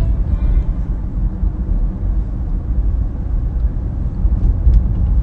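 Steady low road and tyre rumble of an electric Tesla car driving itself on city streets, heard from inside the cabin, with no engine sound.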